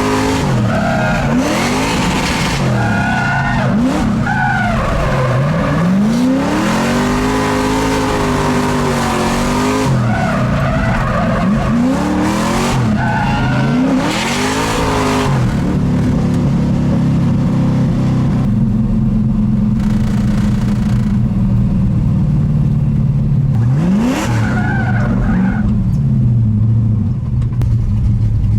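LS3 V8 engine of a swapped Mazda Miata revving hard through a run of drifts, its pitch rising and falling every couple of seconds, over tyre squeal and skidding. In the second half it holds a steadier, lower drone, with one quick rev-up near the end.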